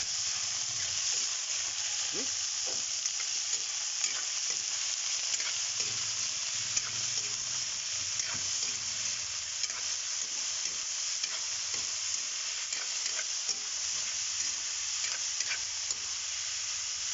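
Pieces of frog meat sautéing with garlic and onion in a hot wok, sizzling steadily, with frequent scrapes and taps of a metal spatula stirring them against the pan.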